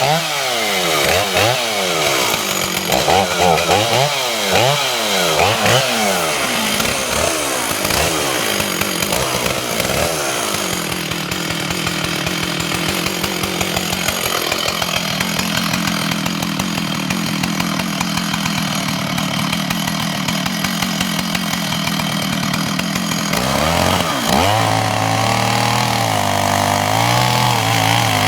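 Large-bar chainsaw revved up and down repeatedly, then held running steadily under load while cutting the face notch into a dead hemlock trunk, its pitch sagging as the chain bites. Near the end it drops back to a lower running speed with short revs.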